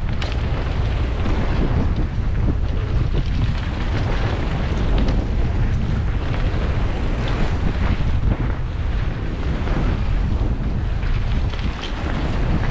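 Wind rushing and buffeting over the microphone of a camera riding along on a fast mountain-bike run, steady throughout, with short rattles and clicks from the bike and trail.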